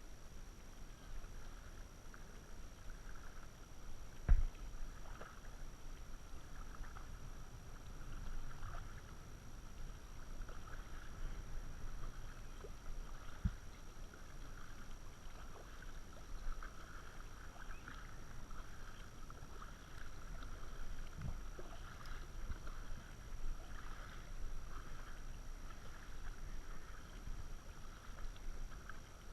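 Kayak paddling: the paddle dips and splashes water in a loose, repeating rhythm. There is a sharp knock about four seconds in and two fainter knocks later.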